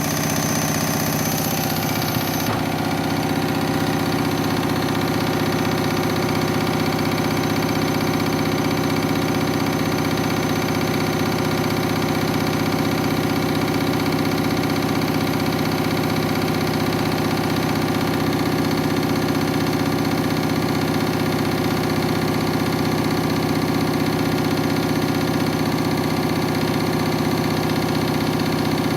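Washing machine drum spinning at high speed with an unbalanced load of towels: a steady motor whine and hum with the cabinet shaking.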